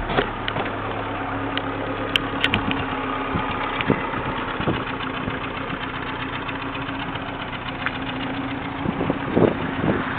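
Toyota truck engine idling steadily, with scattered light ticks over the running.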